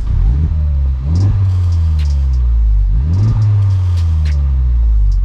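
2021 Honda Civic Type R's 2.0-litre turbocharged four-cylinder on its stock exhaust, revved twice in neutral: each rev climbs quickly and falls back slowly, about two seconds apart.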